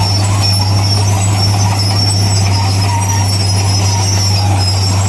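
Heavy diesel earthmoving machinery running steadily under a constant low drone, with a thin high whine over it.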